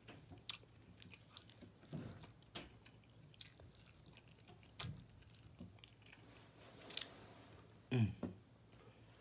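Close-up chewing and biting of saucy pork rib meat off the bone, faint, with scattered sharp wet mouth clicks and smacks. A brief voiced sound comes about eight seconds in.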